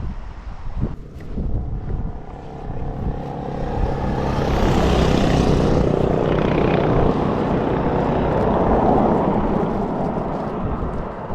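Suzuki Address 125 scooter's single-cylinder engine running while riding, building up over the first few seconds and then holding a steady drone, with wind rushing over the helmet camera's microphone.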